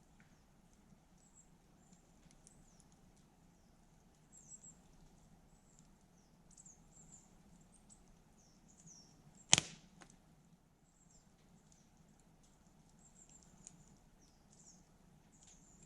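Wood campfire burning: faint high squeaks and light crackles throughout, with one sharp, loud pop from the burning wood about nine and a half seconds in.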